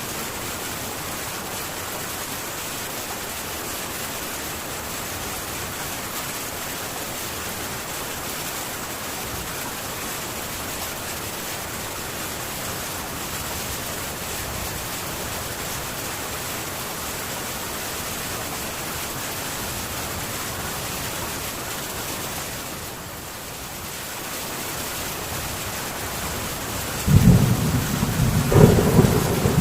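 Heavy rain falling on a metal tin roof, a steady even hiss. About three seconds before the end a loud low rumble of thunder breaks in.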